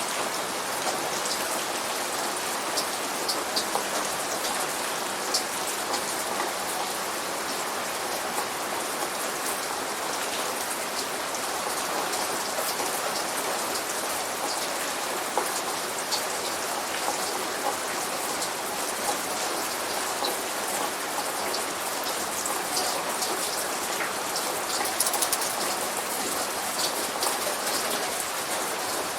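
Steady light rain falling, with many separate drops ticking sharply on a surface throughout. No thunder.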